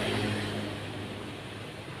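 Engine noise of passing motor traffic: a steady low hum under a broad rush, easing off over the first second.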